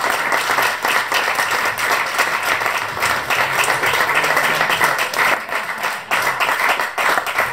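Audience applauding at the end of a song, dense clapping from many hands at a steady level.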